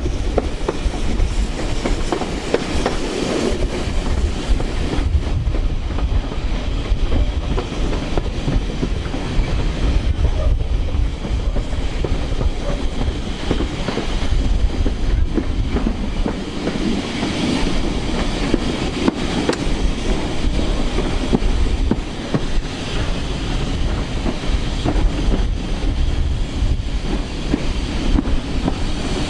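Steam-hauled passenger train behind LMS Black Five 44932 running along the track: a steady loud rumble with scattered clicks of wheels over the rails.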